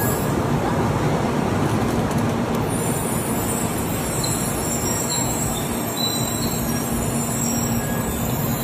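Japanese Shinkansen bullet train running: a steady, continuous rush of rail and air noise over a low, even hum, with a few faint, brief high squeaks partway through.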